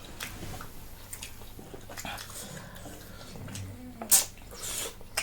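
Eating sounds: chewing and slurping of noodles with scattered small clicks of utensils, and one sharper click about four seconds in.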